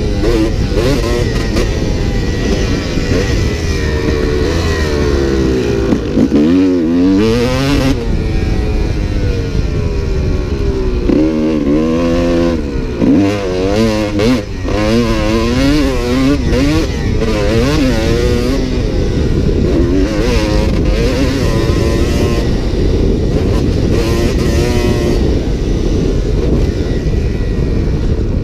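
Dirt bike engine revving up and down as it is ridden, the pitch climbing and dropping again and again as the throttle opens and closes.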